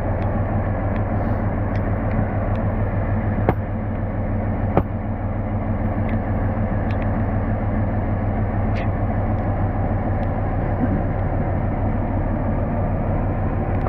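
Diesel locomotive engine running steadily, with two sharp knocks about three and a half and five seconds in.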